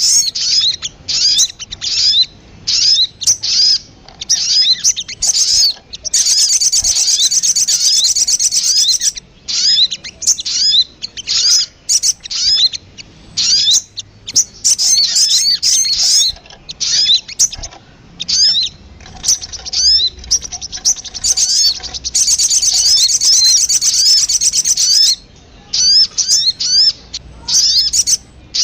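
Recorded lure call of the sogon bird: a steady run of short, high, sharp calls repeated many times a second, breaking twice into a longer burst of fast continuous chatter, once about a quarter of the way in and again past the middle.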